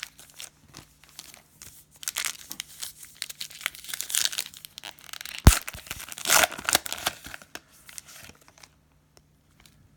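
A trading-card pack wrapper crinkling and tearing open in irregular bursts, with one sharp snap about halfway through.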